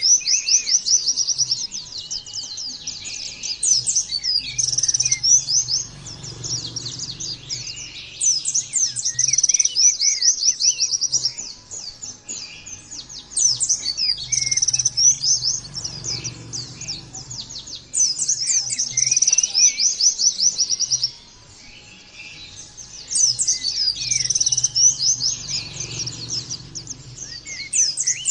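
White-eye (pleci) song in long runs of fast, high chattering notes that come back again and again, with a short lull about 21 seconds in. This is the rapid volley singing ('nembak') that keepers play to stimulate their own birds.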